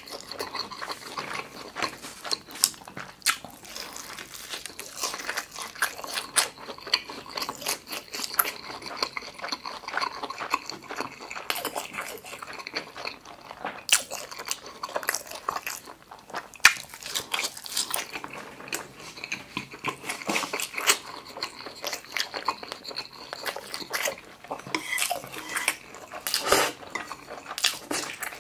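A person chewing food close to the microphone, with frequent wet mouth clicks and lip smacks. The food includes a fried tofu-skin rice ball (yubu chobap).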